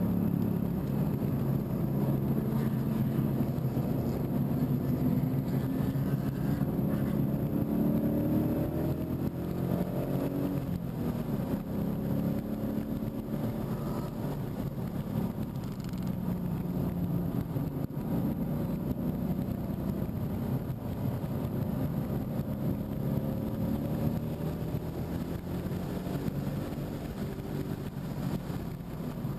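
2015 Mustang GT's 5.0-litre V8 engine at speed on a race track, heard from inside the cabin, its pitch rising under acceleration and falling as the throttle is lifted for corners.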